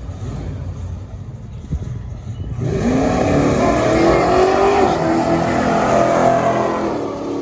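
A drag car's engine accelerating hard down the strip: it comes in suddenly about two and a half seconds in, its pitch rising, and stays loud until it eases off near the end.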